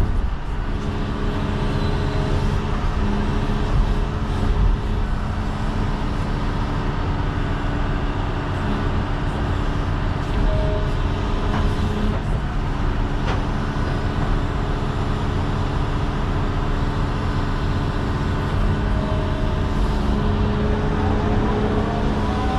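John Deere 210 excavator's diesel engine running steadily at working speed, with brief faint whines from the hydraulics a few times.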